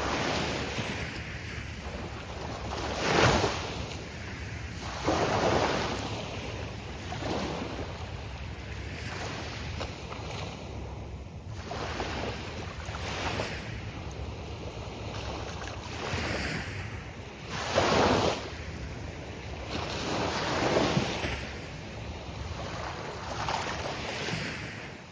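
Gulf of Mexico surf breaking on a beach: waves wash in one after another every few seconds over a steady hiss, the strongest breakers coming a few seconds in and again about two-thirds of the way through.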